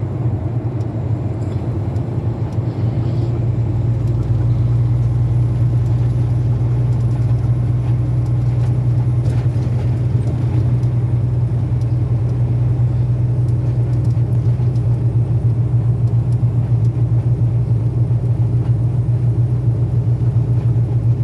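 Tractor-trailer cab at highway speed: a steady, loud low drone of the diesel engine and road noise, getting a little louder about four seconds in.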